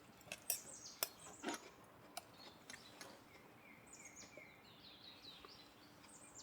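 Forest birds chirping softly, with short repeated calls, several of them falling in pitch. A few light taps sound in the first two seconds.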